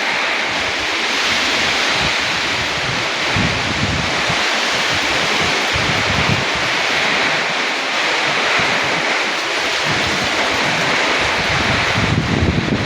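Rainstorm with strong wind: a steady rushing hiss of wind and rain, with gusts buffeting the microphone.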